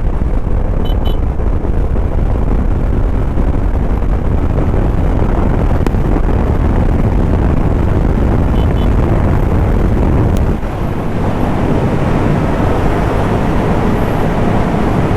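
Motorcycle riding at speed, recorded on the bike: the Suzuki's engine under load and heavy wind rush on the microphone during an overtake. The noise drops a little about ten and a half seconds in.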